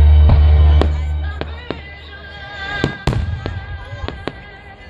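Aerial fireworks going off in a series of sharp bangs, about ten over a few seconds, the loudest about three seconds in, over music played for the show. A deep bass note in the music drops away about a second in.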